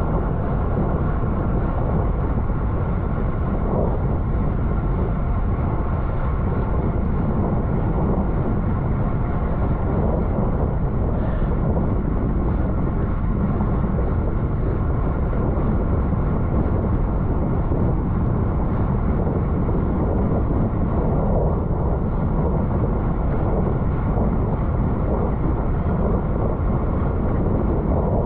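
Steady wind rush over the microphone of a camera carried on a racing bicycle at speed, a low, even roar with no breaks.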